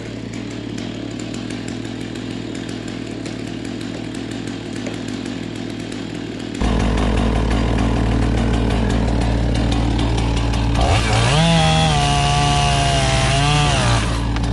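Chainsaw running, revving up to full throttle about eleven seconds in, holding high for about three seconds, then dropping back. Under it runs a steady machine engine hum that gets louder about six and a half seconds in.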